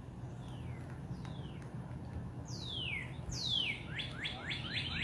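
Birdsong: a few faint falling whistles, then two loud, long falling whistles near the middle, followed by a fast run of short falling notes, about five a second, over a steady low hum.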